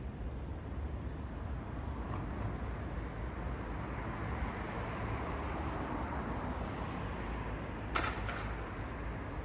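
Night city street ambience: a steady traffic rumble that swells and fades in the middle. Two sharp knocks come close together near the end, then a fainter one.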